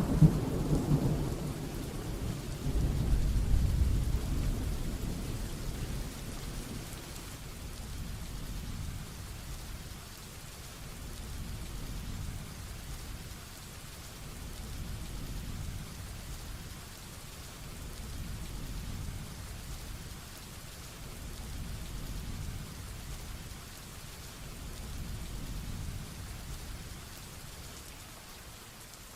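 Rainstorm with thunder: a low rumble of thunder rolls and dies away over the first several seconds. Steady rain follows, under faint distant rumbles that swell and fade every few seconds.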